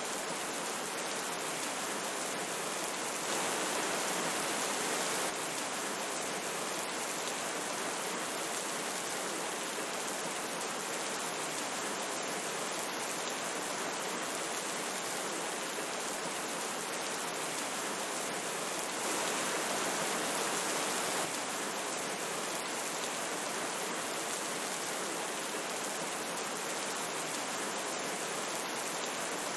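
Flowing river water and rain, a steady, even rush of water noise. It grows slightly louder for about two seconds twice, a few seconds in and again about two-thirds of the way through.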